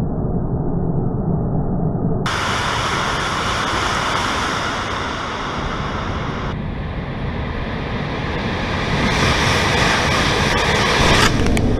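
Intercity-Express high-speed train running past, a loud steady rushing roar that grows louder about nine seconds in.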